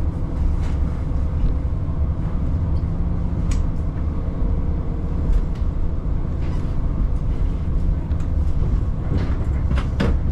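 Diesel railcar running between stations, heard from inside the car: a steady low rumble of engine and wheels on the rails, with a few sharp clicks near the end.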